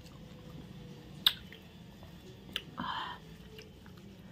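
A person chewing a mouthful of chicken biryani, with a sharp click about a second in, a smaller click later and a short wet squish near three seconds.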